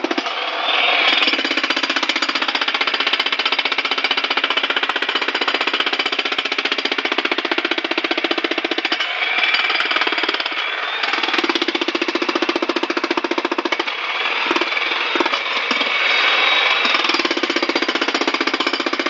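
Jackhammer hammering rapidly and continuously, with short pauses about halfway through and again near three-quarters of the way.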